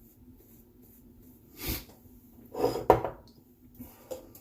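Brief handling sounds from wet-shaving gear: a soft rubbing rustle, then a louder scuffle ending in a sharp click about three seconds in.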